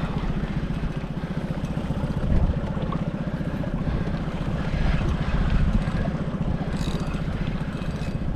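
Small fishing boat's engine running steadily underway, with an even, fast pulse.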